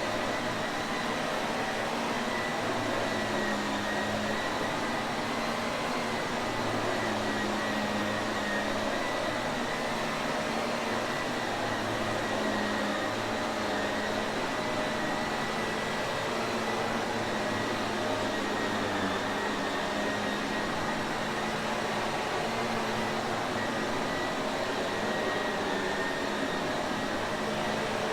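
Shark Navigator vacuum cleaner running steadily: an even whooshing motor noise with a thin high whine and a low hum, unchanging throughout.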